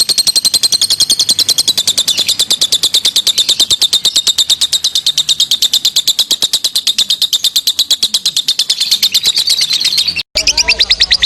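Lovebird singing its long 'ngekek' chatter: a rapid, unbroken string of sharp, high notes, about ten a second. It breaks off for a moment about ten seconds in and then carries on.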